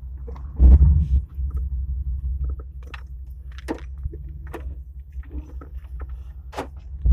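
Ford Explorer 5.0 V8 exhaust through dual total-flow mini mufflers, idling with a deep, steady rumble. It gets a short blip of the throttle about half a second in that quickly falls back to idle.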